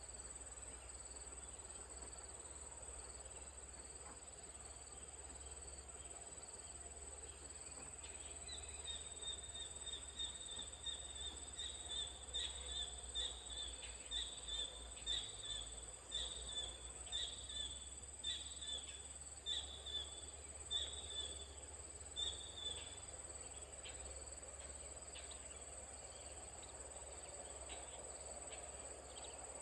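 Outdoor insect chorus: a steady, high-pitched insect drone throughout. From about eight seconds in, a run of short, high chirps repeats roughly once a second for about fifteen seconds.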